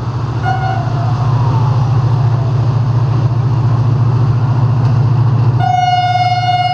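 Diesel-electric locomotive (Pakistan Railways HGMU-30) running with a steady low engine rumble, giving a brief horn toot about half a second in and starting a long, steady horn blast near the end.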